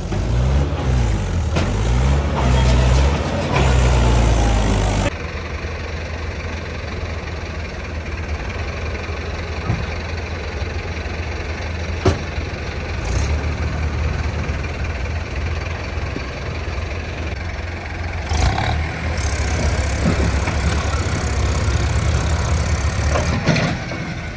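Tractor diesel engines running: revving up and down for the first five seconds, then cutting abruptly to a steadier, quieter running sound for the rest.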